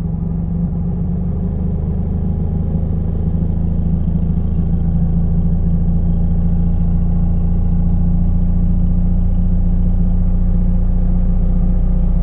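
Fiat Polski 126p's air-cooled two-cylinder engine running steadily on a cold start after standing for a month, getting slightly louder over the first few seconds.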